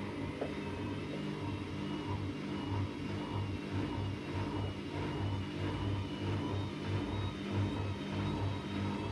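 AEG Lavamat Turbo washer-dryer running a wash cycle: a steady motor hum with an uneven low throb and a faint wavering high whine.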